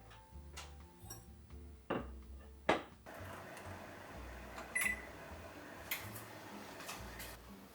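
A microwave oven door shutting with a knock, then a short button beep and the oven's steady running hum as it heats food. Soft background music plays underneath.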